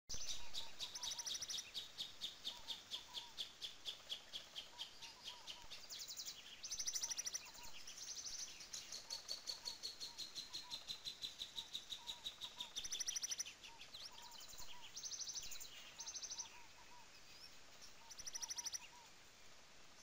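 Songbirds singing: fast, high trills repeated again and again, a long whistle sliding slowly down in pitch in the middle, and soft lower chirps in between.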